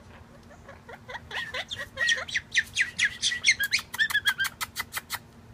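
Quaker parrot (monk parakeet) chirping: a rapid series of short, falling chirps that starts about half a second in and speeds up, then stops near the end.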